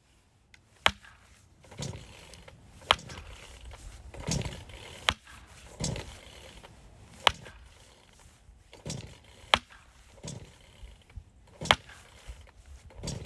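Firewood being split by hand: six sharp strikes, about one every two seconds, each followed by softer dull thuds.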